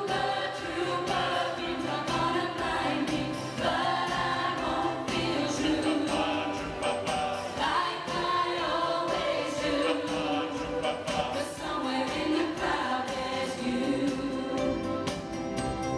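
A choir singing a 1970s pop song with instrumental backing and a steady beat.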